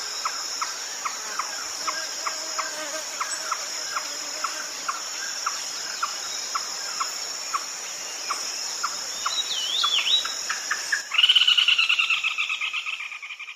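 Red-legged crake calling: a steady series of short, hard notes about three a second, then, about eleven seconds in, a loud rapid pulsing call that fades away. A steady high insect drone runs underneath.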